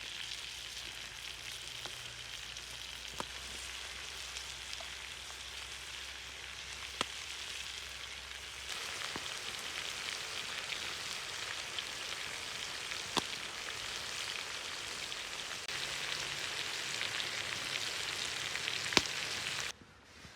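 Meat frying in a pan, a steady sizzle with fine crackling and a few sharp pops of spitting fat, the loudest pop near the end. The sizzle grows slightly louder partway through, then cuts off suddenly.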